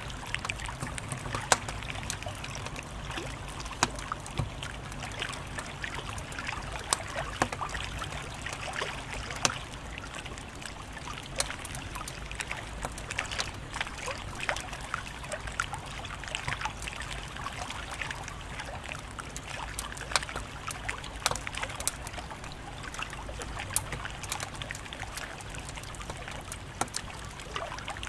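Wood fire crackling, with irregular snaps and a few louder pops over a steady low rumble of burning.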